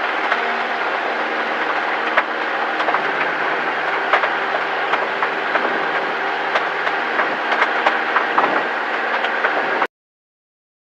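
Cessna 172's piston engine running at full power in the takeoff climb, heard inside the cabin, with irregular clicking and knocking throughout. The sound cuts off abruptly near the end.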